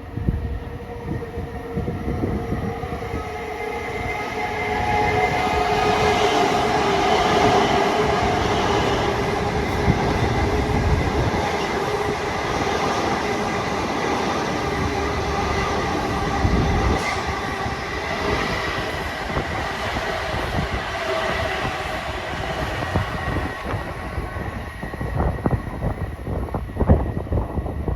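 Long Island Rail Road train moving past: a continuous rumble of wheels and running gear with a steady whine, building to its loudest a few seconds in. Quick wheel clicks over rail joints come near the end.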